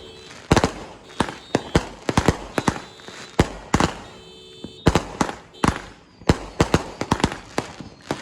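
Tornado Whirlwind fireworks going off in a rapid, irregular string of sharp bangs. The string eases off for about a second around the middle, then picks up again.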